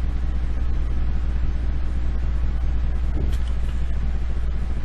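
Steady low-pitched background hum with no speech, with a faint click about three seconds in.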